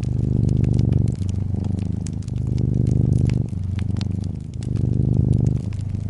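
Domestic cat purring steadily, a low rapid rumble that swells and eases with each breath about once a second. Wood fire crackling throughout, with scattered sharp pops.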